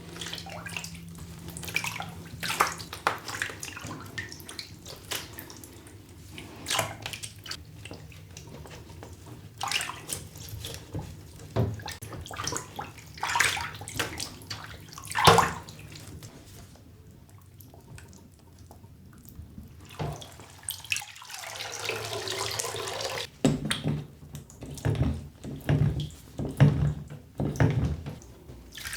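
Water running from a tap and splashing as a doll's hair is washed, with irregular splashes and knocks. The splashing drops away for a few seconds past the middle, then a steady run of water and more splashing follow.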